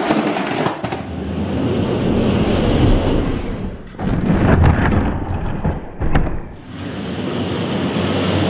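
Die-cast toy monster trucks rolling fast down a racing track: a loud rolling noise, heavy at the low end, with a few sharp clatters and two brief dips in level.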